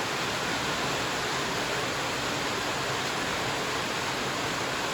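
Steady hiss of heavy rain on a shed roof, even and unbroken.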